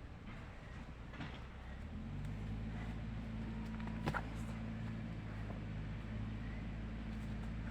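An engine starts running about two seconds in and goes on with a steady low hum. A single sharp click comes about four seconds in.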